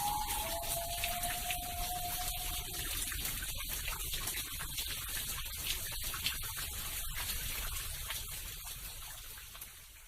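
Steady rain-effect hiss, with a last held musical note fading in the first few seconds; the rain fades out near the end.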